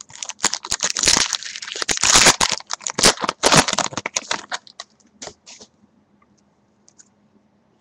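Crinkling and crackling of a foil trading-card pack wrapper being torn open and crumpled, dense for about four seconds, then a few light clicks of cards being handled before it goes quiet.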